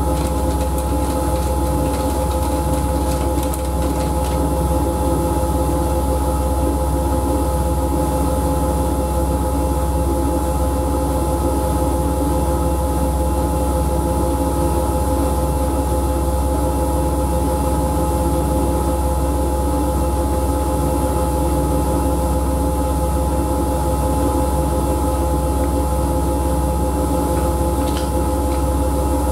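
Siemens Siwamat washing machine running steadily: a constant low motor hum with a steady whine that holds the same pitch throughout.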